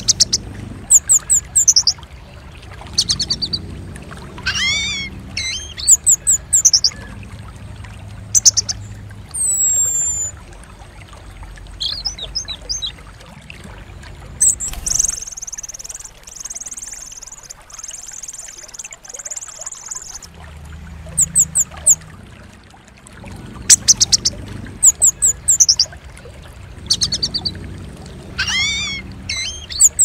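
A recorded track of bird calls: sharp high chirps and rising call notes in quick groups, a buzzy high trill near the middle, over low background noise, with the same calls coming round again near the end. It is a lure track meant to set a caged orange-headed thrush singing.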